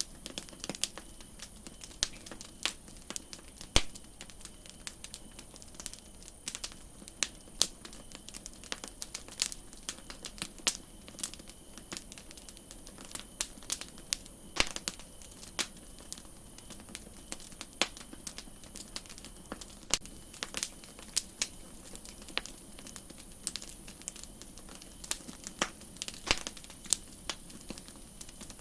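Campfire crackling: irregular sharp pops and snaps of burning wood, some louder than others, over a faint steady hiss.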